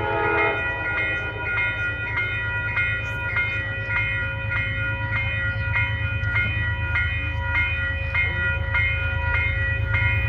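A grade-crossing bell ringing steadily at about two and a half strikes a second over the continuous low rumble of a Metro-North train passing.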